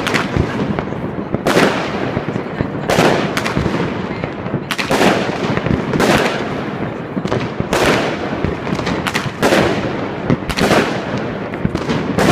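Aerial fireworks bursting overhead: about eight loud bangs, one every second or two, each trailing off in an echo, over continuous background noise.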